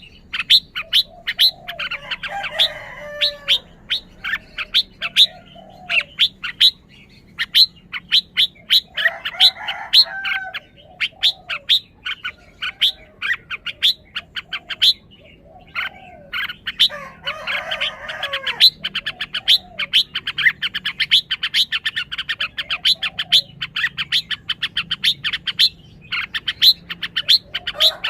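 Red-whiskered bulbul singing short warbled phrases every several seconds, over a near-continuous run of sharp, rapid ticks that grows densest in the second half.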